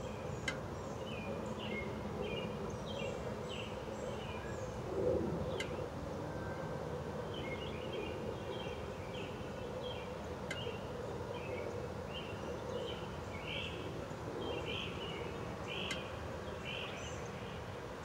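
Outdoor birds chirping: runs of short, high calls repeat throughout, over a steady low background rumble, with a few sharp clicks.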